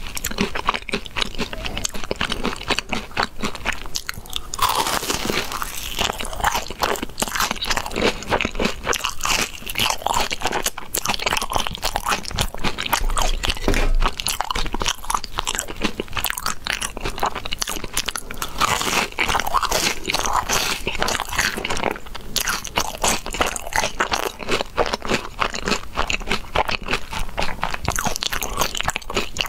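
Someone biting and chewing crispy crumb-coated fried balls: a dense, continuous run of crisp crunches.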